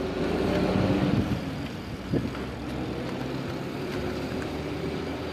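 Motor vehicle engine running steadily with road traffic noise, a little louder in the first second or so.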